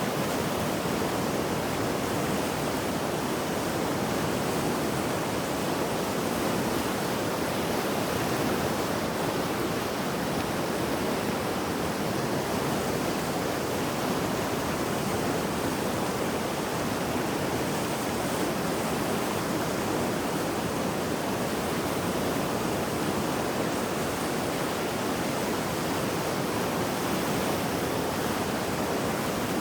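Swollen mountain river in flood after heavy rain, rushing with a steady, even roar of turbulent water.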